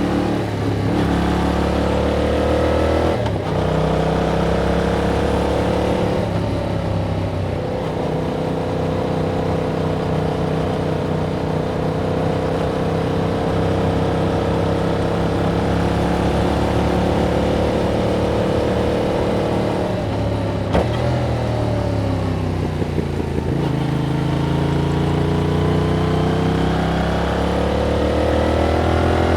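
Yamaha MT-07 parallel-twin engine through its stock exhaust under way: it changes pitch a couple of times in the first few seconds, holds a steady note for a long stretch, drops in pitch from about two-thirds of the way in as the bike slows, then rises again near the end as it accelerates.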